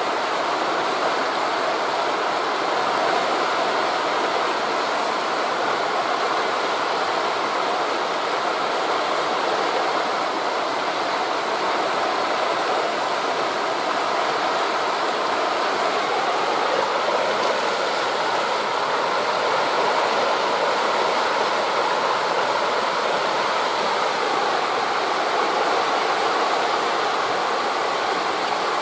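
Steady rushing of wind through forest leaves blended with sea surf, an even noise with no separate wave crashes standing out.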